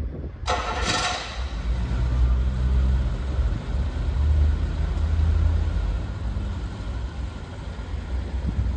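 Rolls-Royce Silver Spirit's 6.75-litre V8 starting from cold: a short burst of noise about half a second in, then the engine running with a low, steady rumble that eases off a little after several seconds. The owner says this engine currently runs rough and needs a service.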